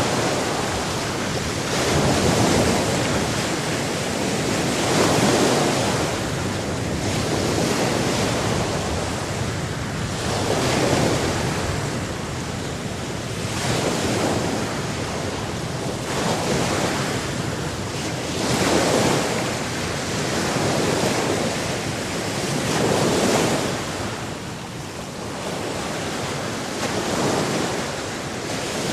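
Sea surf: waves rolling in and washing out in repeated surges every few seconds over a steady rush of water.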